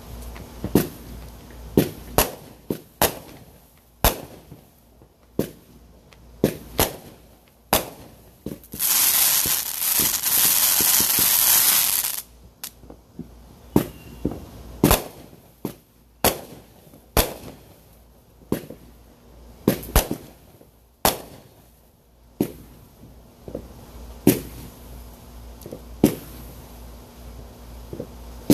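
Fireworks going off: sharp firecracker-type bangs at irregular intervals, roughly one a second, with a loud hissing rush lasting about three seconds near the middle.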